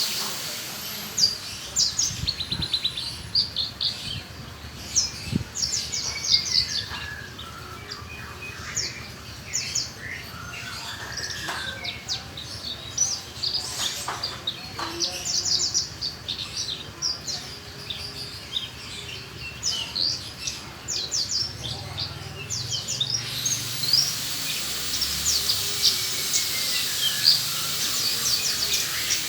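Horsfield's bush lark (beranjangan) singing a long, lively, varied song of rapid high chirps and trills, with short pauses between phrases.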